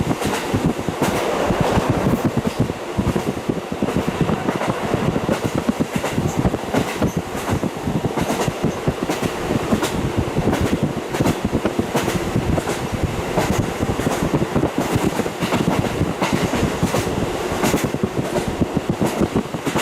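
KiHa 40 diesel railcar running along the track, heard through a fully open window: a steady rumble of running noise with frequent sharp clicks of the wheels over the rails.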